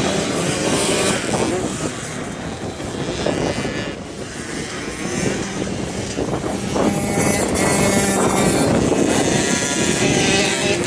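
Motocross bike engines running and revving on a dirt track. The sound eases off about two seconds in and builds back up a few seconds later.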